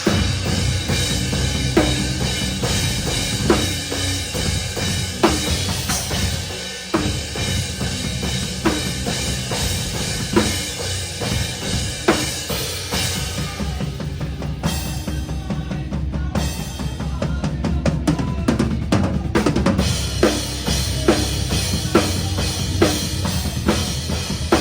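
Live metalcore band heard from right at the drum kit through a phone microphone: the drums dominate, with loud snare hits on a slow, heavy beat over steady bass drum and the band's full sound. About two-thirds through the cymbal wash drops away for a burst of rapid hits, then the snare comes back at roughly double the pace.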